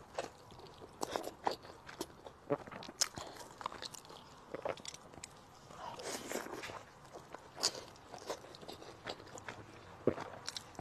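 Close-up eating sounds: chewing mouthfuls of sesame chili noodles, with many small irregular clicks and short smacking noises.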